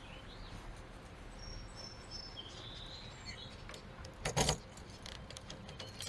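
Birds chirping faintly, a few short high calls, over quiet outdoor background noise. A short louder knock a little past four seconds in.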